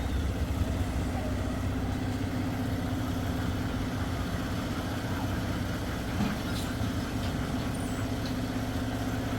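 An engine running steadily at constant speed: a low rumble with a steady hum above it.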